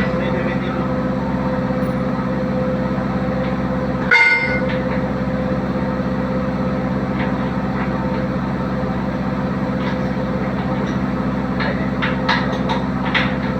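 Diesel engine running at a steady speed, with a few sharp clicks or knocks about four seconds in and again near the end.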